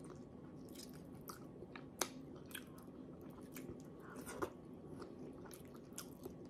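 Faint, close-miked chewing and wet mouth clicks of a person eating soft vinegar-braised fish and rice by hand, with scattered sharp smacks, the sharpest about two seconds in.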